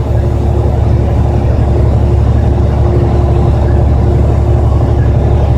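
Steady low rumble of a car driving on the highway, heard from inside the cabin, with a faint steady hum above it.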